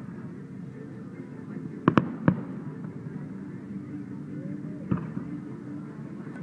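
Fireworks shells bursting: three sharp bangs in quick succession about two seconds in and another just before five seconds, over a steady low background din.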